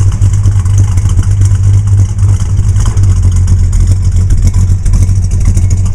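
1969 Plymouth Road Runner's V8 engine running steadily, loud and deep, having just been started.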